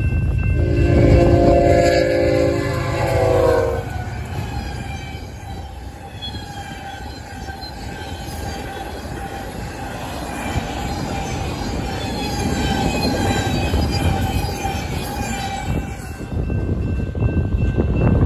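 Freight locomotive air horn blowing one chord for about three seconds, its pitch sagging slightly at the end. An intermodal freight train then rolls past over the crossing, its wheels on the rails making a rumble with a thin squeal. The train noise cuts off suddenly near the end.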